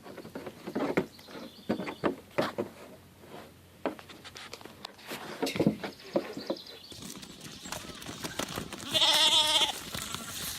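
Scattered knocks and clicks, then one loud, brief bleat from a farm animal about nine seconds in.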